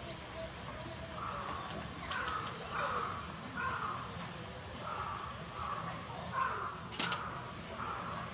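A crow cawing over and over, a steady series of short caws, with one sharp click near the end.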